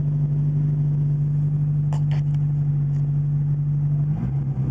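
1980 Porsche 924 Turbo's straight-piped 2.0-litre turbocharged four-cylinder idling steadily. A few light clicks come about two seconds in. Near the end the idle dips and wavers in pitch.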